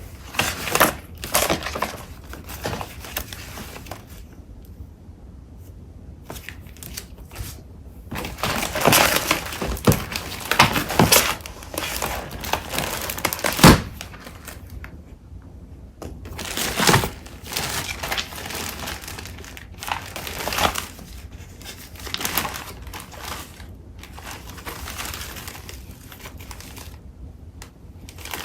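Paper crafting supplies being shuffled and handled: rustling and crinkling in irregular bursts, busiest from about eight to fourteen seconds in, with a couple of sharp knocks.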